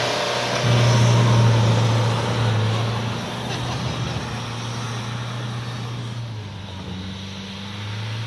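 Engine of a 4x4 off-road vehicle running under load, a steady low note that swells about a second in and then slowly fades as the vehicle moves away.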